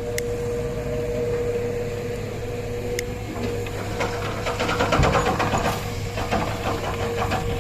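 Heavy machinery engine running steadily with a constant whine. From about four seconds in a rapid clatter sets in, with a heavy thump about five seconds in.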